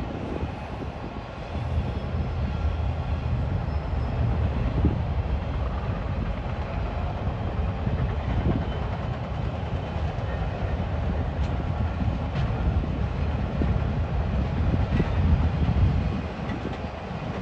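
Freight train's autorack cars rolling past: a steady low rumble of steel wheels on rail, with a few sharp clicks now and then.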